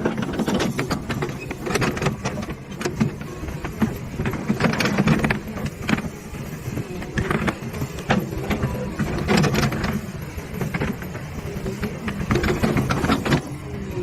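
Excavator's diesel engine running and swelling under load about every four seconds, with frequent metallic clanks and rattles.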